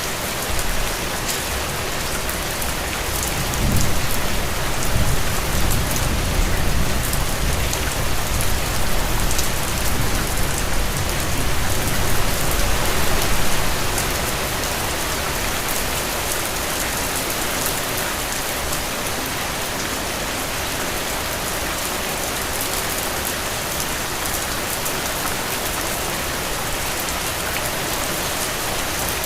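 Steady rain falling on a hard surface, with a low rumble that swells in about three seconds in and dies away after about ten seconds.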